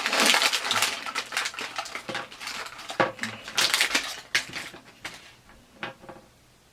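Plastic blister trays of an action-figure box being pulled out and handled, crinkling and clicking, dying away about six seconds in.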